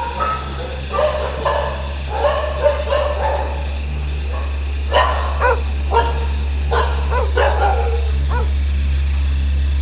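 Dogs yelping and barking in short bursts through the first seven seconds or so, over a steady low hum that grows a little louder toward the end.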